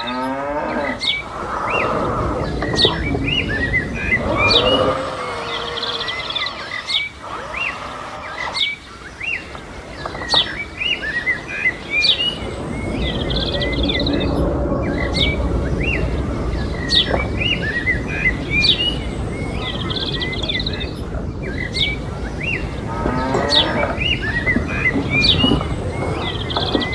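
Small birds chirping repeatedly over a steady low rumble, with a rising whine in the first second and again near the end.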